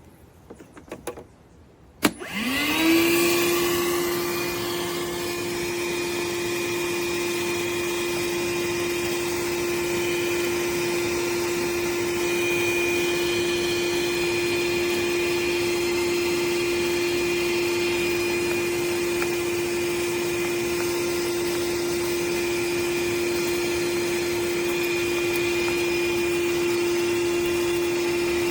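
DeWalt 20V MAX wet/dry shop vacuum (DCV581H) switched on with a click about two seconds in. Its motor winds up to speed within a second, then runs steadily at an even pitch.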